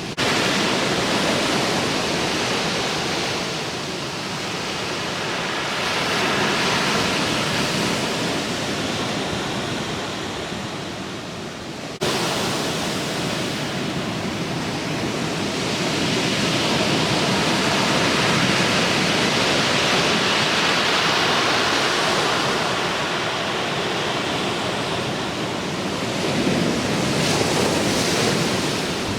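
Surf from a leftover typhoon swell breaking at a river mouth: a steady rushing of waves that swells and fades every few seconds, with an abrupt jump in the sound about twelve seconds in.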